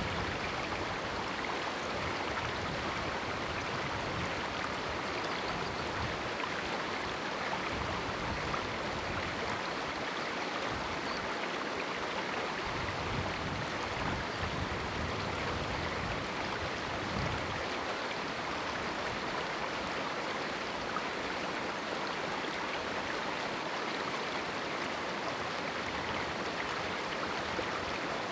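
River water rushing steadily through a small rocky canyon, an even, continuous burble with a few faint low knocks here and there.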